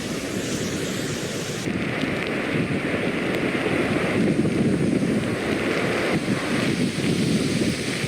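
Rushing floodwater mixed with wind buffeting the microphone, a steady loud rush that changes character about two seconds in.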